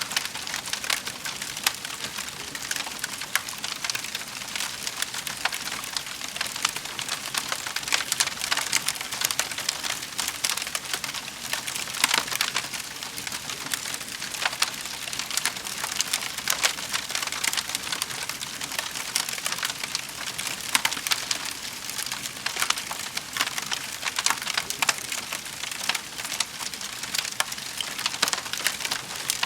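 Wood fire crackling in a fireplace: a dense, irregular run of small pops and snaps over a soft hiss, with a sharper snap about twelve seconds in.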